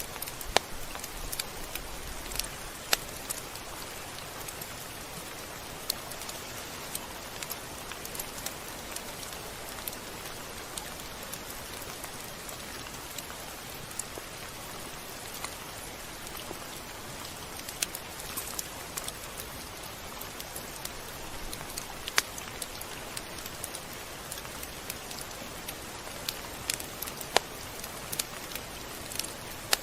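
Steady rain falling on a surface: an even hiss with irregular sharp drop ticks scattered through it.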